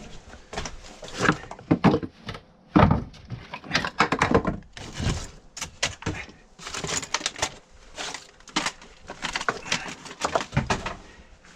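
Irregular knocks, clunks and clatter of junk being moved and tossed about as an RV's contents are cleared out by hand.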